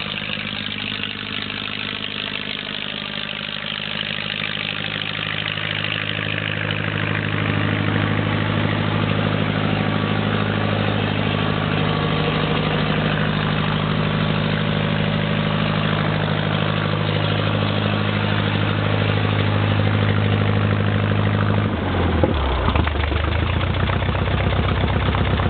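Farmall 544 tractor engine running through a short straight pipe. It picks up speed and grows louder over a few seconds, holds a steady faster run, then drops back to a slower, lumpier idle about 22 seconds in.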